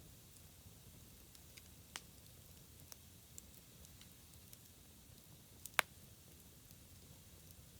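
Wood campfire burning quietly with a faint steady hiss and sparse crackles: a sharp pop about two seconds in, a few small ticks, and the loudest pop near the end.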